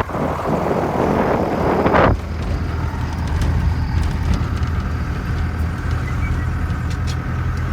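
A motor vehicle's engine running steadily while driving, with a loud rushing noise over it for the first two seconds that cuts off suddenly.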